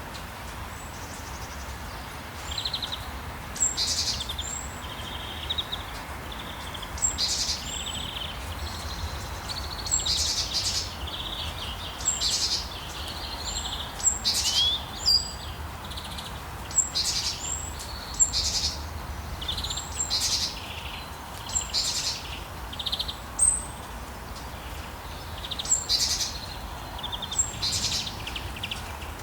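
Small songbirds chirping and trilling in short, repeated calls every second or so, over a steady hiss of rain and a low rumble.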